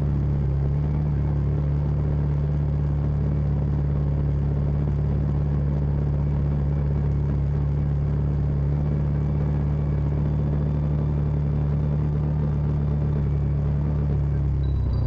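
Side-by-side UTV engine running at a steady speed on a trail, a low, even drone that holds one pitch throughout.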